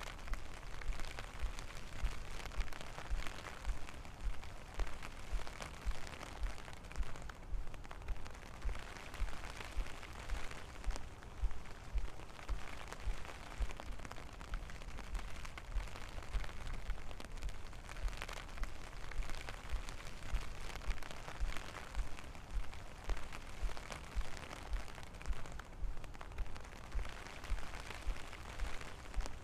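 Steady rain falling, with soft regular low thumps about twice a second from the footsteps of the person walking through it.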